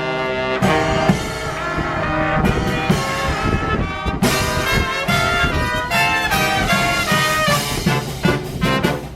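Live brass band playing, with trumpets and trombones carrying a lively tune.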